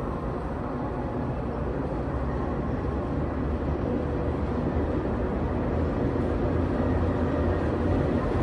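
Train running through the station, a steady low rumble that grows gradually louder as it comes closer.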